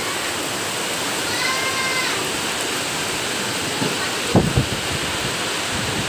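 Rain falling on corrugated metal sheet roofs, a steady hiss. A single short call rises and falls in the distance about a second and a half in, and a couple of low thumps come a little past four seconds.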